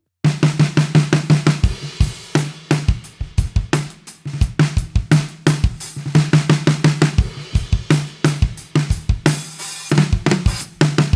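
Drum kit groove played on a 14x6.5 Gretsch Full Range walnut snare with an Evans UV1 head, tuned low and damped with two Evans EQ gel pods, so each snare hit gives a short, low, muffled ring. Bass drum and cymbals play along, with a longer cymbal wash about nine seconds in.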